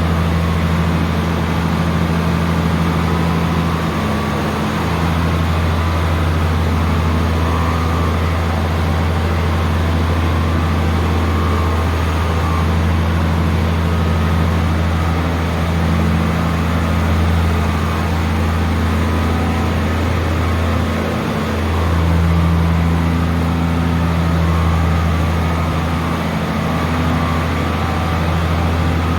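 A heavy harvest machine's engine running steadily at a constant speed, with a loud, unbroken low hum.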